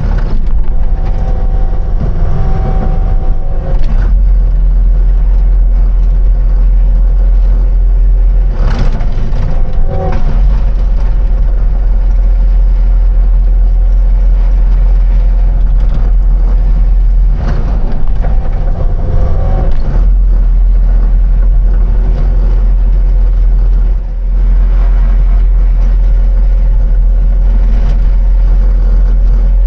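Construction machine's engine running steadily under load, with a constant low drone and brief shifts in its tone a few times, as if the machine is working and revving.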